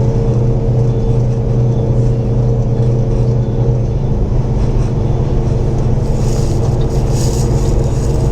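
Semi truck's diesel engine running steadily under way, with road noise, heard inside the cab; the engine note shifts about four seconds in, and a brief hiss rises near the end.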